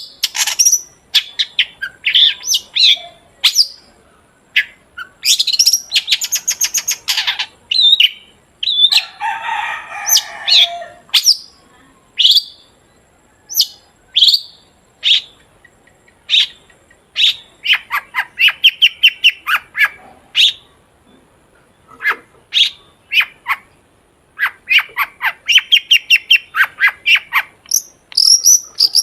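Long-tailed shrike (cendet) in full song: a loud, continuous stream of sharp calls, a harsh rasping chatter about nine seconds in, and fast runs of repeated notes later on.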